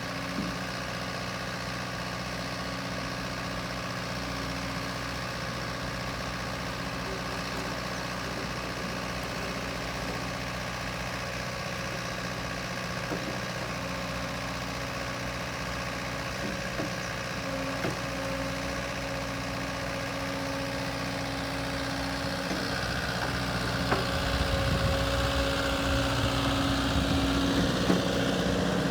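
Diesel engine of a JCB 85Z-1 midi excavator idling steadily, getting louder and deeper over the last few seconds.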